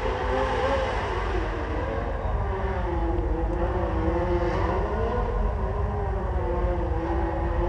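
Motorcycle engines running continuously, their pitch wavering up and down as the throttle is worked, over a heavy low rumble.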